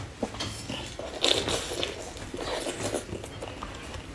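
A person biting and chewing strawberries, with a louder bite a little over a second in.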